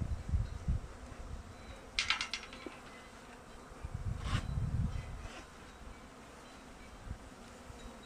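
Honeybees buzzing around an opened hive, agitated after the frames were handled. Two short hissing bursts come about two and four seconds in.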